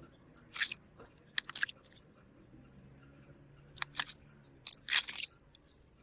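Small tools clicking and scraping against a smartphone as it is taken apart for repair, in a few short, scattered bursts.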